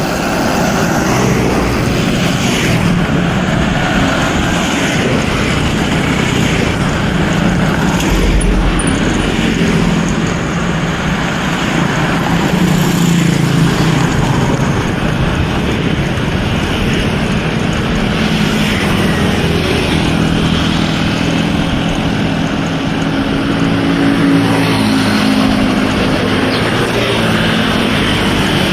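Steady, loud wind rush on the microphone of a camera riding along on a moving bicycle, with a low engine-like hum underneath that shifts in pitch.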